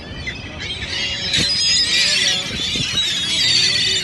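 A flock of birds calling: dense, high chirping chatter that swells about a second in, with a few lower honk-like calls underneath.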